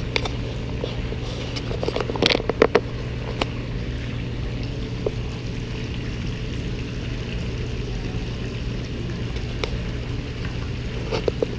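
A steady low hum with running water, and a few sharp clicks or knocks about two seconds in and again near the end.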